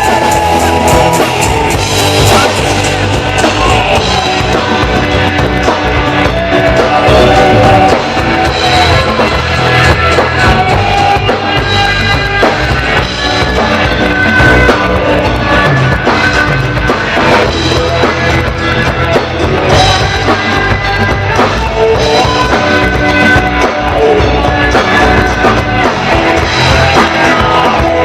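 Rock music with drum kit and guitar playing steadily, an instrumental passage between sung verses.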